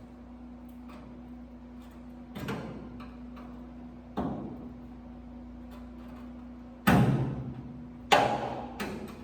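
A handful of separate knocks on sheet metal, each ringing out briefly, over a steady low hum. The two loudest come about seven and eight seconds in.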